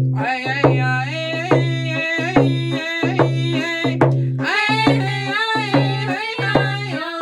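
Indigenous round dance song: voices singing a wavering melody over steady hand drum strokes, about two beats a second.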